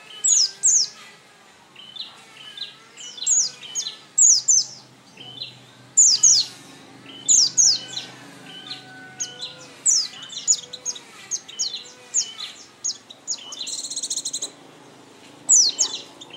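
White-eye (pleci) singing: short phrases of high, quick downward-sweeping chirps, repeated every second or so, with a buzzy trill about three quarters of the way through.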